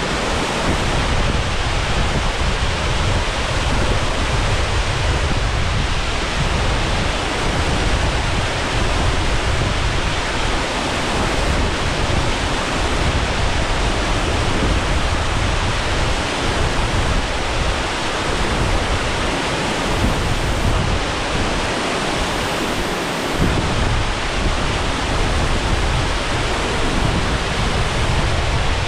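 Steady, loud rush of a waterfall pouring into a pool, heard up close, with uneven low rumbling underneath.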